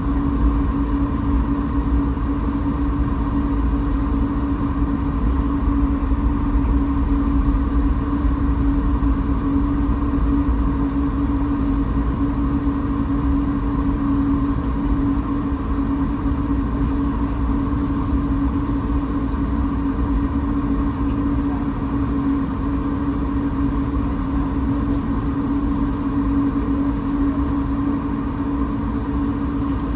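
Cabin sound in an Airbus A220-300 with its Pratt & Whitney PW1500G geared turbofan engines running: a steady hum over a low rumble, unchanging throughout.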